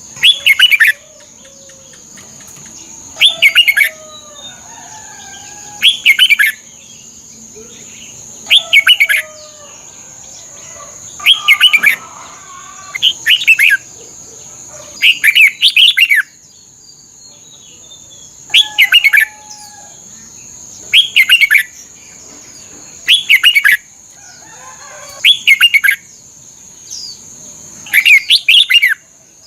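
Red-whiskered bulbul singing short, loud, warbled whistled phrases, about one every two to three seconds, over a steady high-pitched whine.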